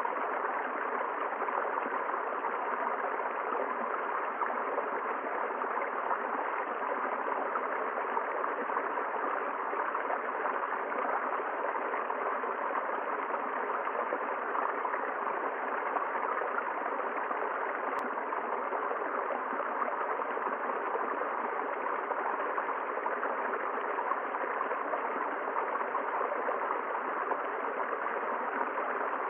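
River water flowing steadily over rocks, a constant rushing and gurgling with no change in level.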